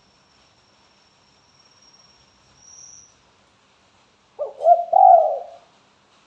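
Spotted dove cooing: one short phrase of two or three low, connected coos about four and a half seconds in, the tekukur's call.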